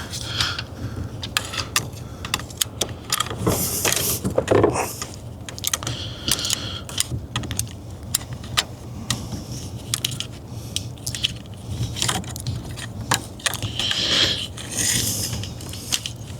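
Irregular light clicks, taps and rattles of metal and plastic parts being handled as the ignition lock cylinder's wiring harness is worked into the steering column cover, with a few short scrapes.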